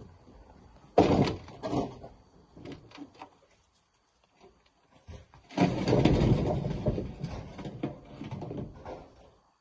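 Rocks being loaded into a dump truck. A heavy knock comes about a second in, then a few lighter knocks, then a longer run of clattering from about the middle to near the end.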